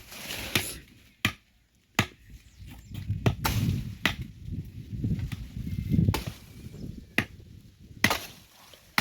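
Axe chopping firewood: a series of sharp strikes into wood, about one a second, with a low rumbling noise in the middle.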